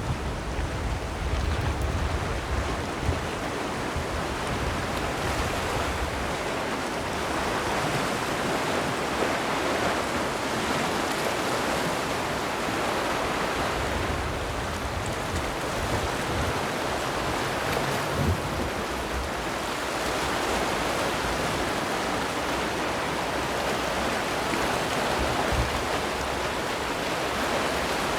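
Sea waves washing in, a steady rushing that slowly swells and eases. Wind buffets the microphone in the first few seconds.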